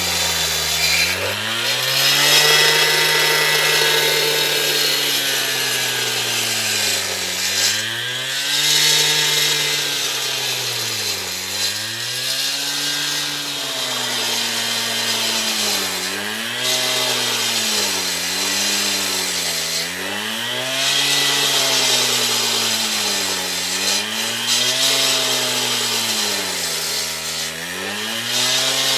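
Small engine-driven power tool running, its engine speed repeatedly sagging and recovering every few seconds as it comes under load.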